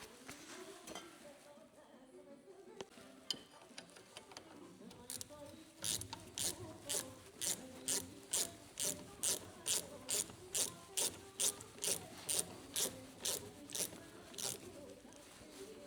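A hand tool worked in quick, even strokes, about two and a half a second, each stroke a sharp ratcheting click. The strokes start about five seconds in after a few faint knocks and stop shortly before the end.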